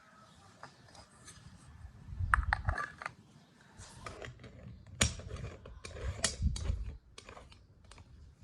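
Irregular clicks, taps and knocks of cooking things being handled, in clusters from about two seconds in until about seven seconds in, with a few low thuds.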